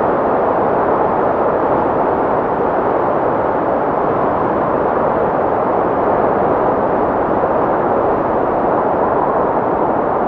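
Wind sound effect: a steady, even rush of wind with no whistling tones and no gusts.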